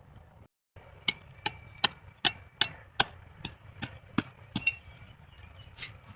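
Firewood being chopped: a quick, even run of about ten sharp blows into wood, two or three a second, then a pause and one more blow near the end.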